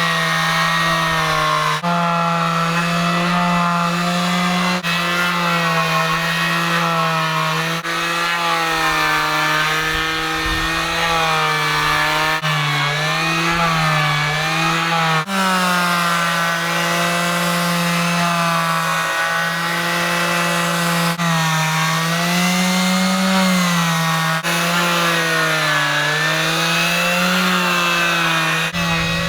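Power sander running against a boat hull, a steady whine whose pitch sags and rises as it is pressed harder and lighter, with sudden jumps every few seconds.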